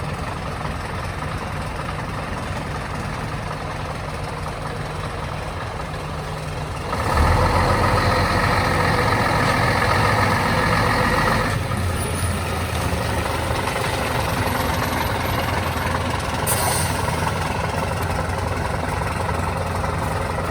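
Fire truck's engine running steadily, then much louder for about four seconds from about seven seconds in before settling to a steadier run. A short hiss about sixteen seconds in.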